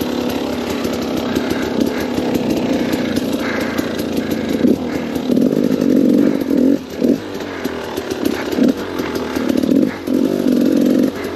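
KTM 250 XCW's two-stroke engine revving up and down under the rider's throttle, its note dropping briefly several times in the second half.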